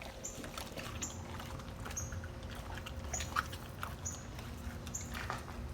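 Dog chewing a raw chicken thigh: soft, wet smacking and scattered clicks of teeth. A faint, short, high chirp repeats about once a second.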